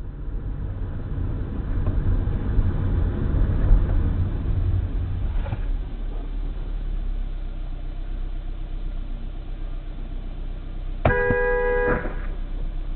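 Steady vehicle engine and road rumble. About two seconds before the end, a car horn sounds once for about a second.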